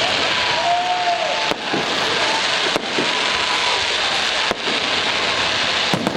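Fireworks display: a dense, continuous crackle of bursting shells, with four sharper bangs about a second and a half apart.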